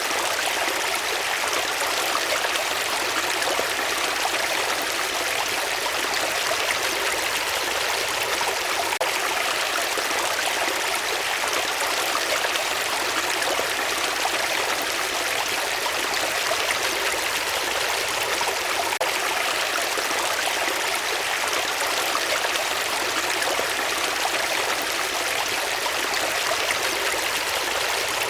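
Flowing water rushing steadily, an even hiss-like wash with no breaks or changes.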